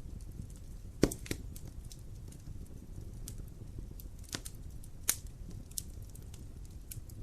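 Fireplace fire crackling: scattered sharp pops over a low steady rumble, the loudest pop about a second in and another about five seconds in.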